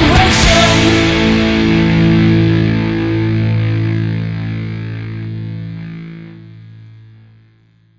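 The final chord of a punk rock song: distorted electric guitar held and ringing out after a last crash of the band about half a second in. It fades slowly away to silence by the end.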